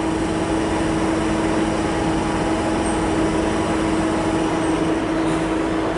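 Steady electric hum and rumble from a Docklands Light Railway train standing at an underground platform, with one constant mid-pitched tone running through it.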